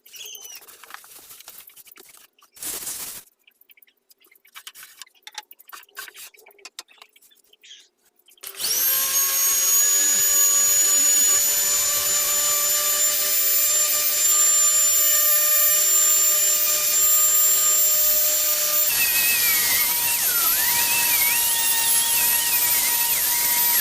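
Light scraping and tapping on wood at a low level. About nine seconds in, a small electric power tool spins up and runs loudly and steadily with a high whine, its pitch shifting slightly near the end.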